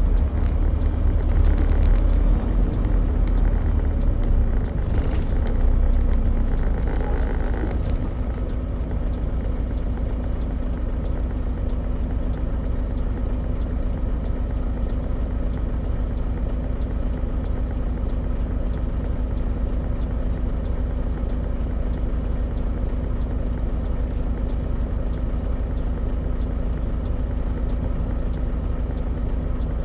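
Semi truck's diesel engine running with a steady low drone and hum. A louder rushing noise over it fades away about eight seconds in, leaving the engine alone.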